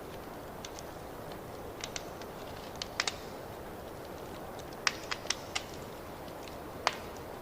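Wood fire crackling in a fireplace: a steady low rumble of burning with sharp, irregular pops and snaps, a cluster of them about five seconds in.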